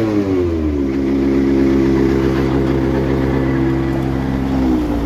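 Semi truck's diesel engine running at raised revs. Its pitch falls in the first second, holds steady, then drops again near the end as the revs come down.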